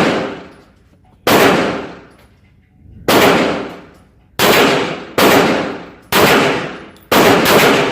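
Kel-Tec PMR-30 .22 Magnum pistol firing seven shots at an uneven pace, roughly one a second, with the last two close together. Each report rings and echoes for about a second before the next.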